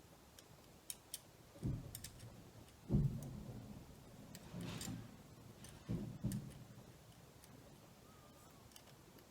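Light clicks and a few dull knocks from small plastic parts of a Mercedes W204 headlight switch being handled and fitted together.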